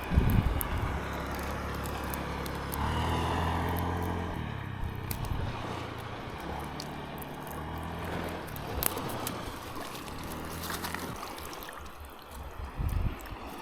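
A small boat's motor running over water, its pitch shifting a few times before it dies away near the end, with water trickling and sloshing against the hull.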